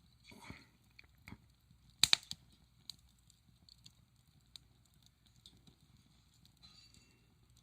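Wood fire crackling: scattered small ticks and pops, with two sharper snaps close together about two seconds in.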